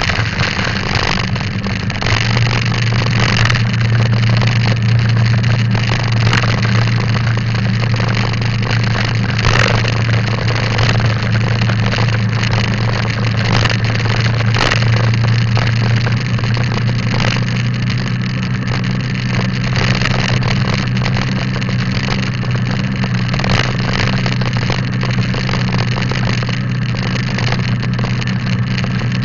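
Motorcycle engine running steadily while riding, with a constant rush of wind and road noise. The engine note strengthens about two seconds in and then holds even.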